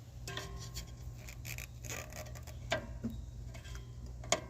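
Scattered light clicks and taps from the rusted drum-brake parts of a 1956 Ford F500 being handled and prodded, with a couple of sharper knocks near the middle and end. A steady low hum runs underneath.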